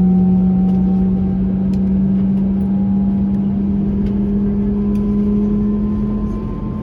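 Airbus A321neo's Pratt & Whitney PW1100G geared turbofan engines running loudly and steadily: a strong low hum slowly rises in pitch over a dense rumble, with a fainter higher whine also creeping upward.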